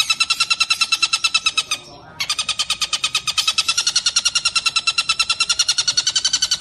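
Tengkek buto kingfisher giving a fast rattling trill of about ten even, shrill notes a second. It breaks off for a moment about two seconds in, then runs on without a pause.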